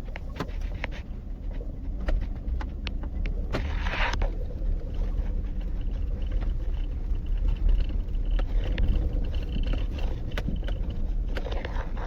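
Vehicle driving slowly over a rough, bumpy dirt road: a steady low rumble of engine and tyres with frequent knocks and rattles as it jolts over the ruts, and a brief hiss about four seconds in.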